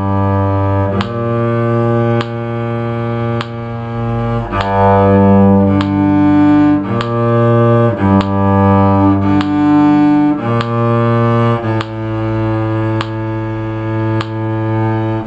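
Bowed string instruments, with a cello in the low range, playing long sustained notes that change about once a second. Thin sharp clicks recur throughout.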